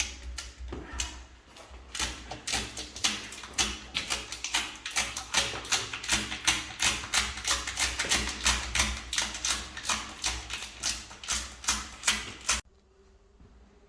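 Wood fire crackling in a fireplace firebox at its first lighting: a rapid, irregular run of sharp pops and cracks over a steady low rumble, cutting off suddenly near the end.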